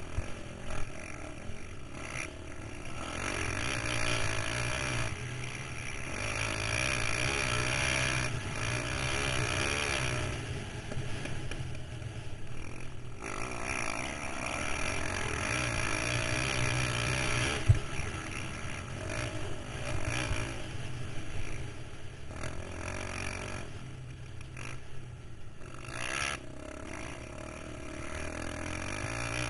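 KTM 525 XC quad's single-cylinder four-stroke engine heard from onboard while riding, its pitch rising and falling as the throttle opens and closes. A single sharp knock stands out a little past halfway.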